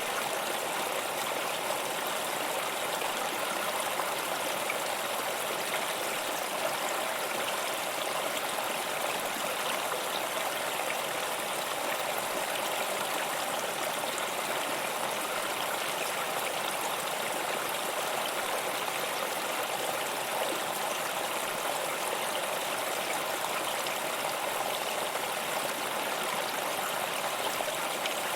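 Stream of running water, a steady babbling and trickling without pause.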